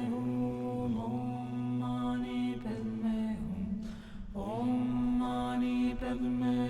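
A chanted mantra: a voice sings a slow, bending melody over a steady held drone, breaking off for a moment about three and a half seconds in before the next phrase starts.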